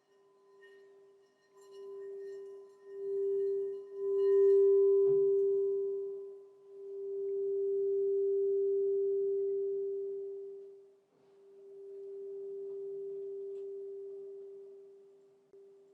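Crystal singing bowl sounding one sustained, pure tone that swells and fades in slow waves, with a light knock about five seconds in.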